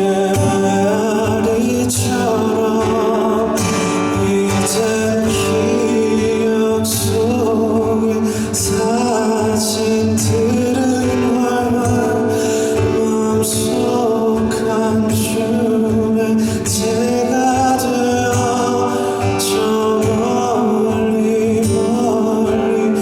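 Live band playing a slow pop song, with a voice singing over sustained chords and a regular drum beat.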